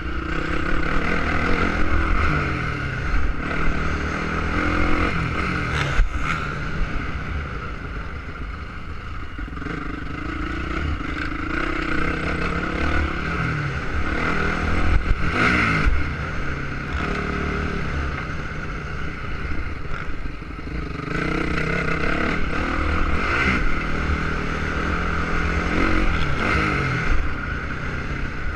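Motocross bike engine revving up and falling off again and again, as on a ride round a track, with heavy low rumble from wind on the microphone. Two sharp knocks, about six seconds in and near the middle.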